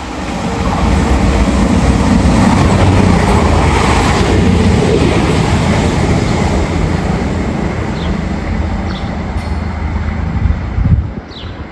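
A train running past close by: a loud, steady rumble of wheels and machinery that drops away sharply about eleven seconds in.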